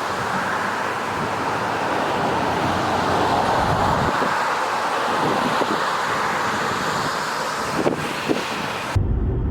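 Steady road traffic: cars passing with a hiss of tyres that swells and fades. Two short knocks come near the end, and just before it closes the sound cuts abruptly to a low rumble.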